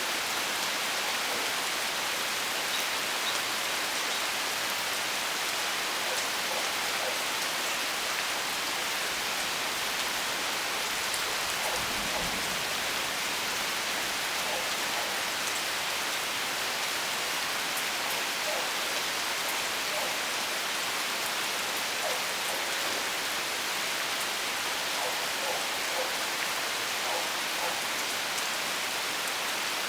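Steady rain storm: a dense, even hiss of rain with scattered individual drops ticking through it. A brief low rumble comes about twelve seconds in.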